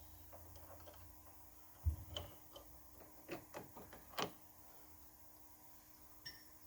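A handful of light clicks and knocks from tools being handled while a tap is set up in the machine, the loudest about four seconds in, over a faint low hum that stops about two seconds in.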